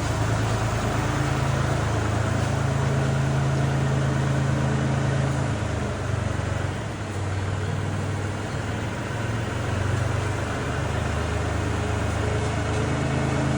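Kubota tractor's diesel engine running steadily. The engine note drops a little about six seconds in and comes back up a few seconds later.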